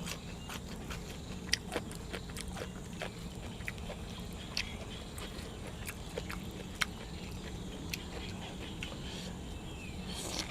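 Close-miked chewing and biting of cuttlefish and fresh vegetables: irregular wet clicks and crunches, a few sharper ones, over a steady low hum.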